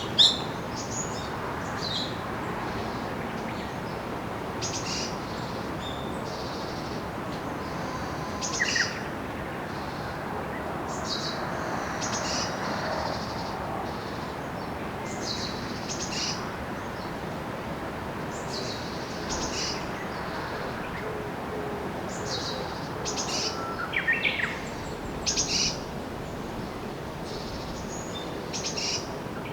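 Small birds calling in woodland: short, high chirps and call phrases every second or two over a steady background hiss, with a few louder calls near the end.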